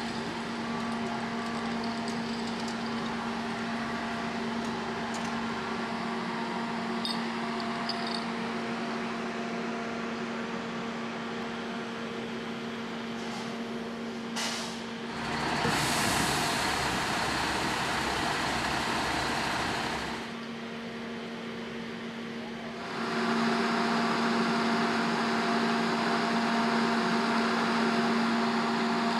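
Steady machine hum of a running engine or motor, holding one pitch, with abrupt jumps to a louder, noisier stretch about halfway through and back.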